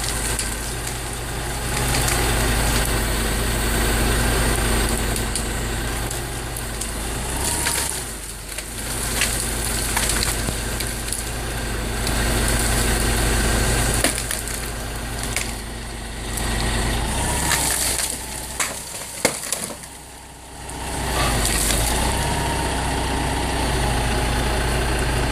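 Ford 9000 log truck's engine running hard to power its hydraulic grapple loader, revving up and down several times, with scattered cracks and snaps of wood as a big cherry tree is pulled off its stump and brought down.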